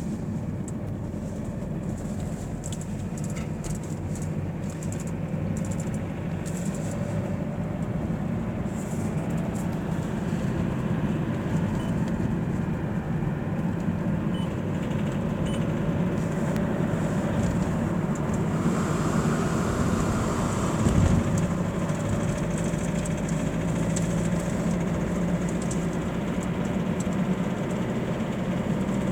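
Mazda 6 running, a steady low drone of engine and road noise with a faint whine above it that drifts slowly in pitch, and a single short knock about two-thirds of the way through; the strange noise the owner is recording.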